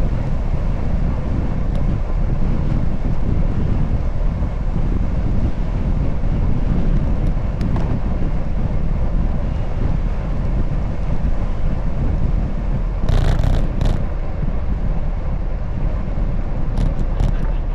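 Wind buffeting the microphone of a camera riding along on a moving bicycle, a steady low rumble. Two short hissing bursts come about three-quarters of the way through.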